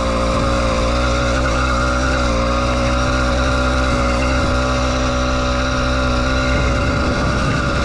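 80cc two-stroke bicycle engine running under way at a steady pitch, wavering slightly near the end.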